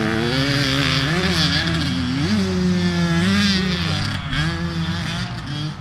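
Dirt bike engine running, its pitch rising and falling with the throttle and holding steady for about a second in the middle.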